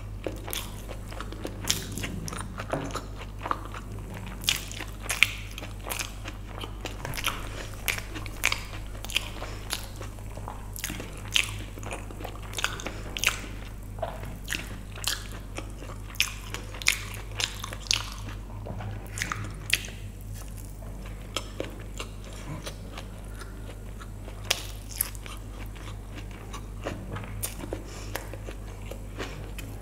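Close-miked chewing of mouthfuls of vegetable biryani and fried brinjal (begun bhaja) eaten by hand, with many sharp, irregular mouth clicks and crunches.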